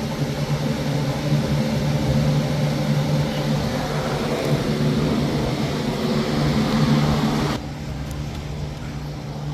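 A steady mechanical whir over a low hum that cuts off abruptly near the end.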